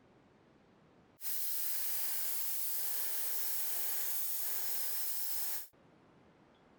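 A steady spray hiss from a pressurised nozzle, starting abruptly about a second in, holding even for about four and a half seconds and cutting off sharply.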